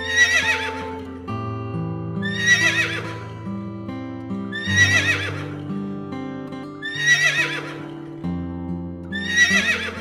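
Horse whinnying five times, about every two and a half seconds, each call the same high, quavering neigh sliding downward, over background music with held chords.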